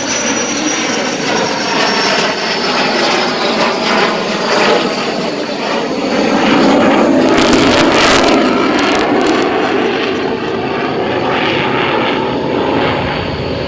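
F-16 Fighting Falcon's single turbofan jet engine roaring continuously during a low display pass. A high whine sinks slowly in pitch, and the roar is loudest about seven to nine seconds in as the jet passes closest.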